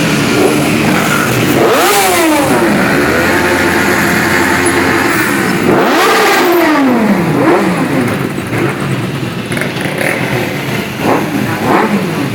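A large group of motorcycles riding past, engines running and revving. Two bikes stand out at about two and six seconds in, their engine note rising and then falling away as each goes by.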